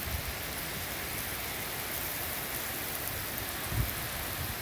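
Heavy wind-driven rain pouring down in a steady hiss, with a brief low rumble near the end.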